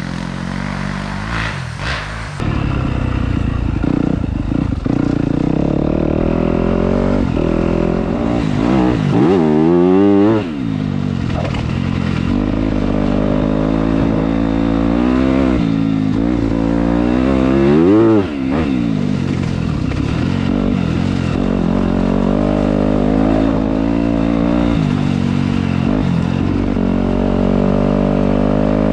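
Dirt bike engine riding along and revving up and down, with two strong revs that climb and fall back, one about nine to ten seconds in and one about eighteen seconds in.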